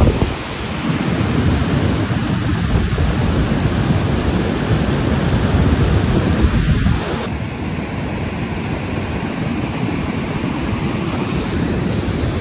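Steady rushing roar of a glacial outburst flood torrent carrying mud and stones, heaviest in the low range. It drops slightly in level and changes character about seven seconds in.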